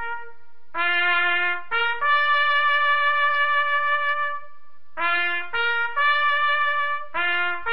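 Trumpet playing a rising three-note phrase twice, the top note held each time, the first time for over two seconds. A held note cuts off at the very start, and the phrase begins a third time near the end.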